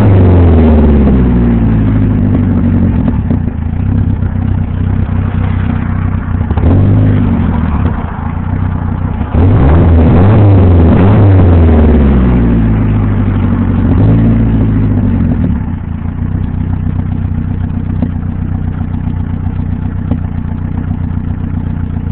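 Dodge Aries 2.2-litre four-cylinder engine running through a 3-inch exhaust all the way back, its turbo not yet hooked up, being revved and idling. A rev dies away at the start, followed by a short blip, a bigger rev about nine seconds in that falls back, and another small blip. It then settles into a steady idle for the last several seconds.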